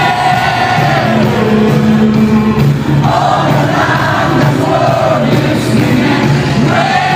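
Live worship band music with sustained singing and a large crowd singing along.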